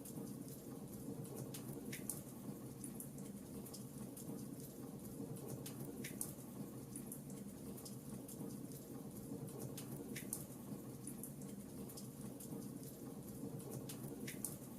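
Fireplace fire crackling: a steady low rush of burning wood with many small snaps and a few sharper pops, about every four seconds.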